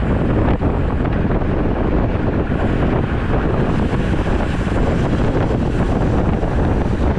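Steady, loud wind buffeting the microphone of a camera riding along on a road bike, a dull rushing roar of air strongest in the low end.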